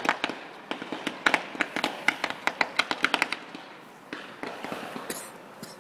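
Fireworks going off: a rapid run of sharp cracks, several a second, that thins out to a few scattered ones after about three seconds.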